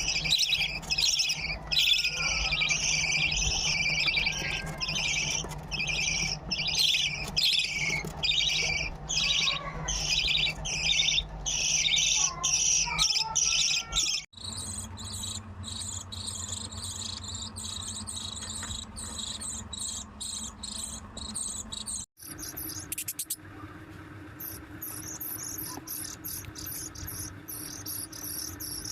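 Budgerigar chicks giving their begging calls, a rhythmic raspy chirping about twice a second, the sign of hungry chicks asking to be fed. About halfway through, it cuts abruptly to fainter, higher and quicker chirping, which changes again after a second cut.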